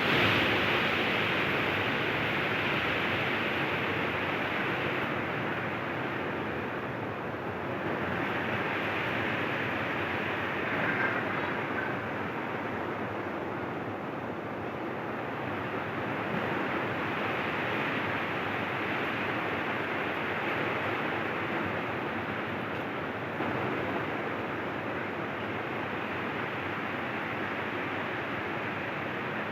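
Heavy rain falling steadily, a dense hiss that swells and eases a little every few seconds.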